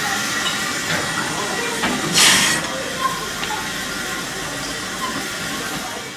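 GWR 4200-class 2-8-0 tank locomotive 4277 Hercules pulling out, with a steady hiss of steam. One loud, short blast of steam comes about two seconds in.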